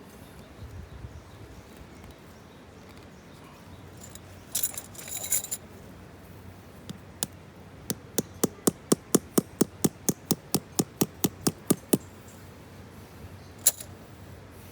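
A brief metallic jingle, then a steady run of about twenty sharp taps or clicks, roughly four a second, for about five seconds, with one more tap near the end.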